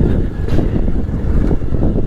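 Motorcycle engine running as it rides along, with wind buffeting the microphone.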